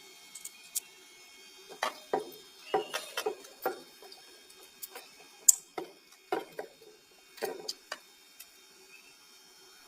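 Irregular plastic clicks, scrapes and knocks as the caps are prised off a small 4-volt lead-acid battery, to check it for acid. One sharp click is loudest, about halfway through.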